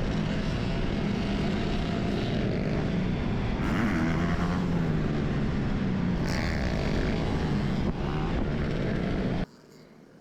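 Motorcycle riding noise: heavy wind rush over the microphone with a steady engine drone from bikes in the group. It cuts off abruptly near the end.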